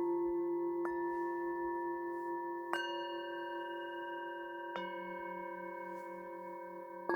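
Struck metal singing bowls ringing: three strikes about two seconds apart, each leaving long, overlapping tones that fade slowly, with a slow pulsing wobble in the lowest note.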